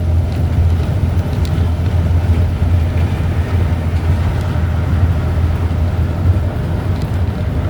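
High wind and heavy rain: a steady deep rumble of wind with a hiss of rain over it and a few faint ticks.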